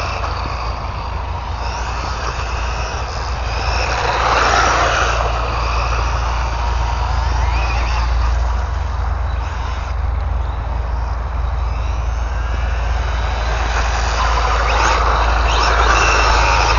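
ARRMA Infraction 3S radio-controlled car driving, its brushless electric motor whining and tyres hissing. The sound swells as the car comes close about four seconds in and again near the end, over a steady low rumble.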